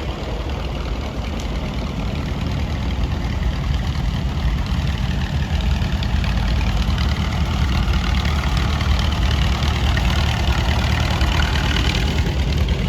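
Tractor engine running with a deep, steady note, growing louder over several seconds as it draws near, then holding.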